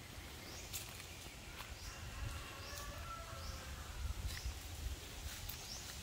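Outdoor garden ambience: a bird repeats a short, high, rising chirp about once a second, with a few fainter calls in the middle, over a faint low rumble.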